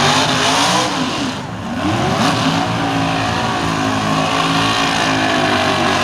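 Drag race car engine running loud at high revs, its pitch dipping and climbing again about a second in and once more near the end.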